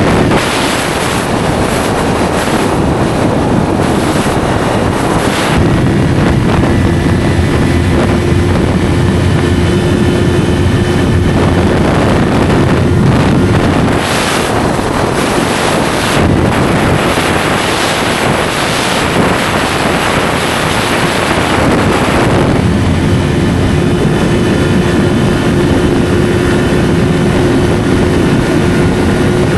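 Yamaha R3 parallel-twin engine running through an SC Project slip-on exhaust while riding, with wind rushing over the microphone. Through the middle stretch the sound grows fuller and rougher, then settles back to a steady drone.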